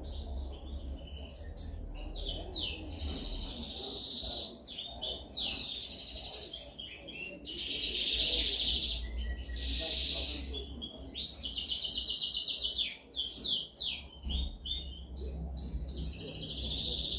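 Domestic canary singing a continuous song of fast trills and rolls, switching from one phrase to the next every second or so, over a low steady hum.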